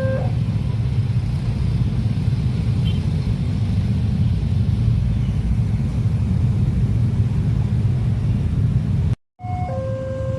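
A train passing at close range, with a steady heavy rumble. Near the end the sound cuts off briefly, and then a level crossing's warning signal sounds: two alternating electronic tones.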